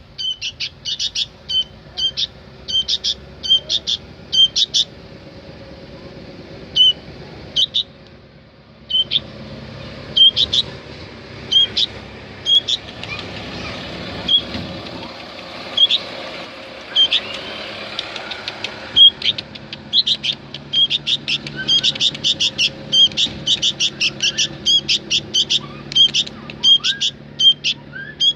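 Sooty-headed bulbul giving repeated short, sharp chirps, sometimes spaced out and sometimes in quick runs, fastest in the last third. A steady background hum runs underneath, heavier through the middle stretch.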